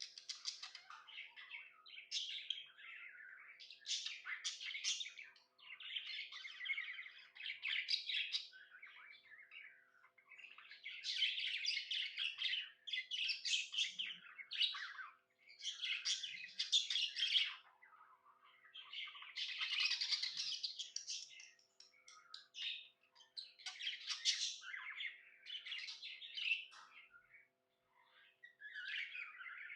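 Budgerigars chirping and chattering in bursts of a second or two, with short pauses between.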